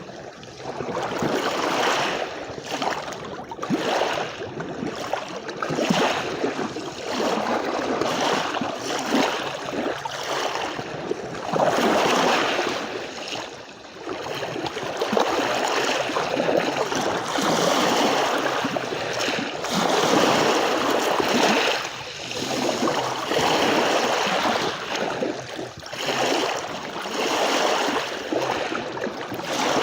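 Sea waves washing onto a beach, a continuous rush of surf that swells and ebbs in irregular surges every few seconds.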